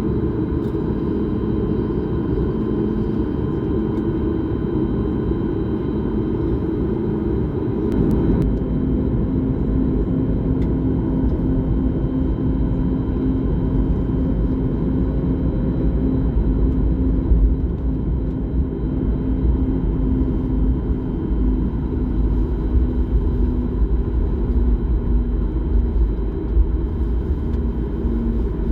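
Steady cabin noise of a jet airliner in flight: engine and airflow noise, mostly low, with faint steady tones above. About eight seconds in, a deeper rumble and a steady hum come in and stay.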